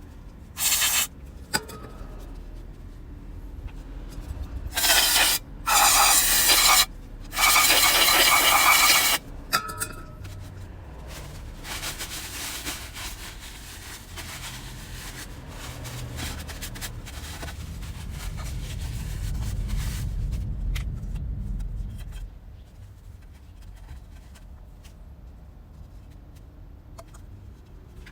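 Hand work on a Honda Grom 125's rear wheel and bearing parts. Four short, loud hisses come in the first ten seconds, then about ten seconds of steady rubbing and scraping.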